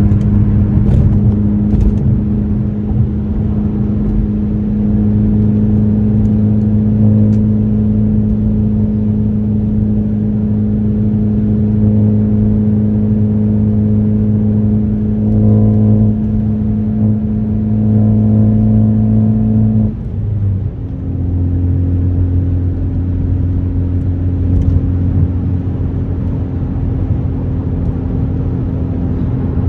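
2018 Ford Focus ST's turbocharged 2.0-litre four-cylinder engine running through an AWE axle-back exhaust, holding a steady note. About twenty seconds in, the note breaks briefly and settles again at a different steady pitch.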